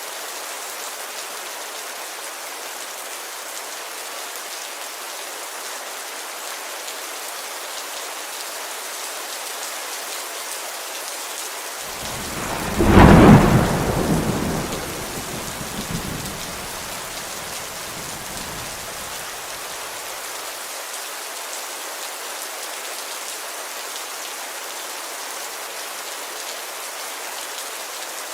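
Steady heavy rain falling on a window, with a single thunderclap about halfway through that breaks sharply and then rumbles away over several seconds.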